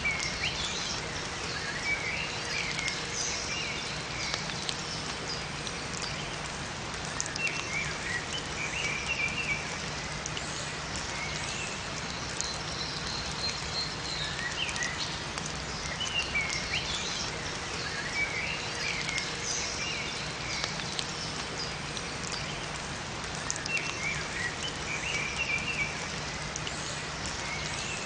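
Steady rain falling in a forest, with small birds chirping in short twittering phrases every few seconds.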